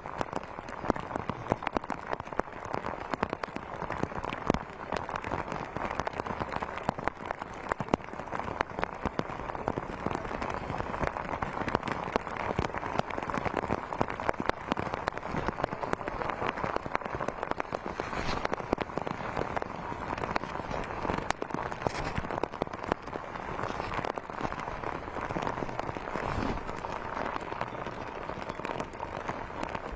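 Rain falling steadily, a dense crackle of drops hitting a surface.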